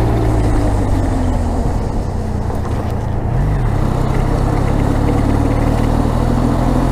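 Benelli TRK 502 motorcycle's parallel-twin engine running steadily with a low rumble, with a brief rise and fall in pitch about three and a half seconds in.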